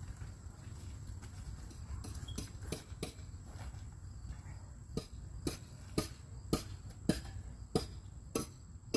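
Sharp knocks on a hard surface, a few scattered at first, then settling into a steady beat of about two a second over the second half.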